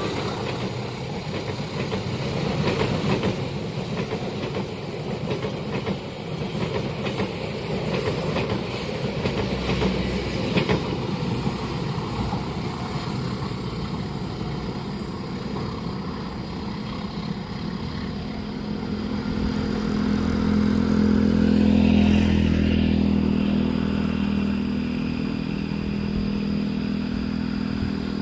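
A train passing at speed, its wheels clattering over the rail joints. In the second half a steady engine hum swells and then eases.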